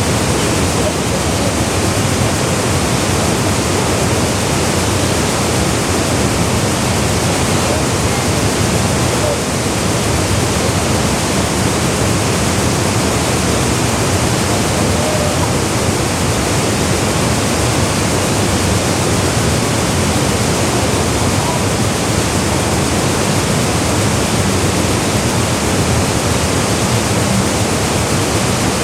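Waterfall pouring into a gorge pool: a loud, steady rush of falling water without a break.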